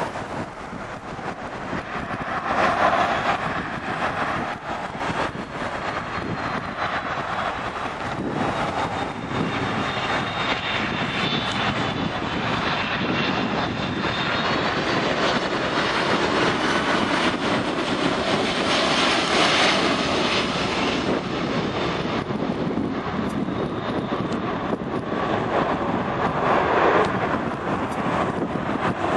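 Boeing 767-200 jet airliner's engines as it comes in to land: a steady loud rush of jet noise with a faint high whine that wavers in pitch partway through, and swells in loudness near the start and near the end.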